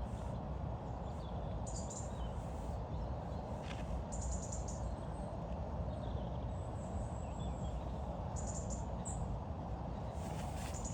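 Small birds chirping in short high calls several times over a steady low background rumble.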